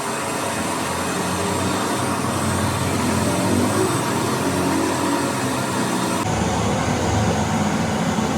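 An engine running steadily; the sound changes abruptly about six seconds in.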